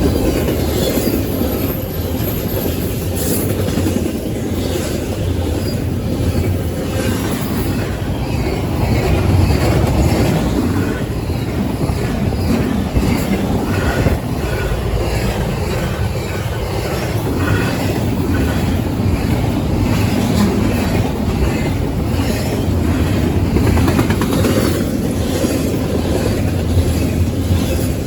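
CSX freight train's cars rolling past at speed: a steady, loud rumble of wheels on rail with faint clicks as the wheels cross the rail joints.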